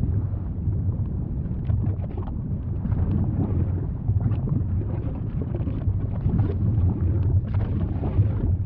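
Volcano rumbling: a steady low rumble with scattered small crackles over it.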